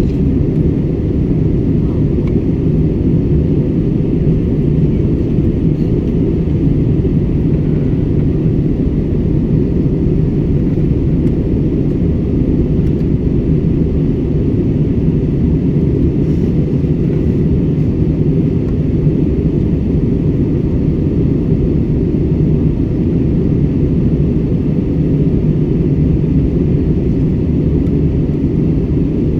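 Steady roar of an airliner cabin in flight: engine and airflow noise, strongest in the low range, with a faint steady hum on top.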